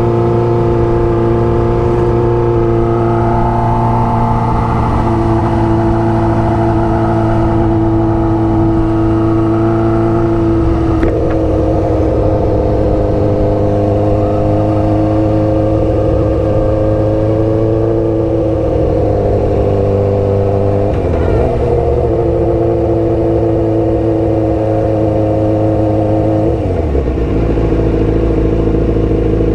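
Sportbike engine running steadily while riding, heard from on the bike. The engine note changes pitch about a third of the way in and again about two-thirds in, then drops near the end.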